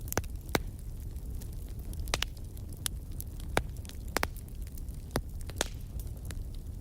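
Campfire crackling: about ten irregular sharp pops and snaps over a steady low rumble.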